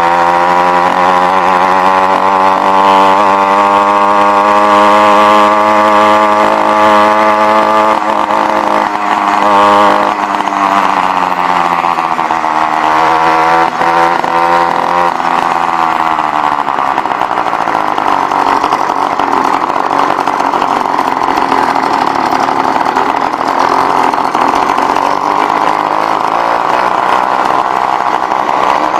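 Motorized bicycle's kit engine running under way. Its pitch holds steady for about ten seconds, dips and rises again, then falls away to a lower, steadier drone after about sixteen seconds.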